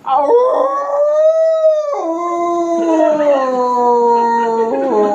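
A man imitating a dog howling, in one long wail. The howl rises and holds high, then about two seconds in drops abruptly to a lower pitch that sinks slowly.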